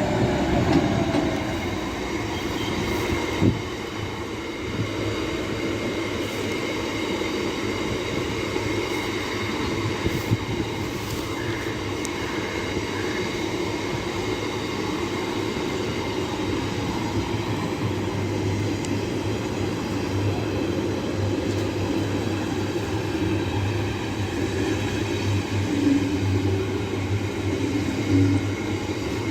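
A long freight train's wagons rolling steadily past at an even level, with faint wheel-on-rail clatter.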